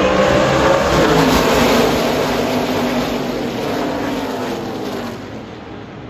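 A pack of NASCAR Craftsman Truck Series race trucks' V8 engines at full throttle going past, several engine notes sliding down in pitch as they go by, then fading about five seconds in.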